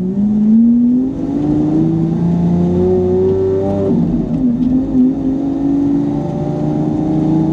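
Car engine pulling under acceleration, its pitch climbing, dropping sharply about four seconds in as if on a gear change, then climbing again.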